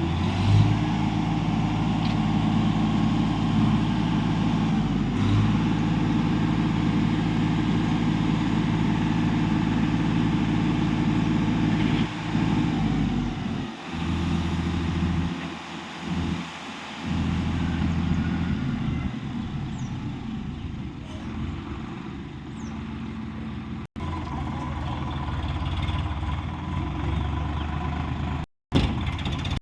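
Heavy diesel engine running at a steady speed; its sound thins out for a few seconds around the middle, then comes back.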